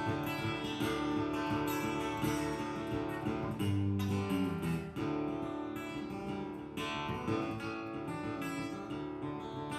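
Acoustic guitar strumming chords in an instrumental break of a blues song, with no singing.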